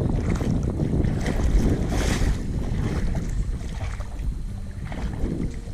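Wind buffeting the microphone, with water sloshing and splashing around the person moving through the lagoon, a larger splash about two seconds in.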